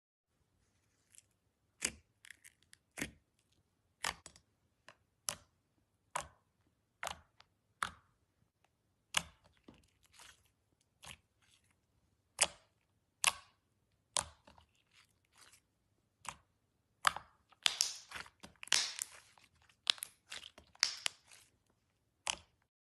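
Slime being pressed and squeezed by hand: sharp wet pops and clicks about once a second, then a denser run of crackling pops about three-quarters of the way through.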